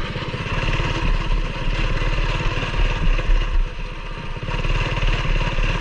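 Coleman BT200X mini bike's single-cylinder four-stroke engine, with an aftermarket exhaust, running at a low, steady throttle as the bike creeps over rough trail.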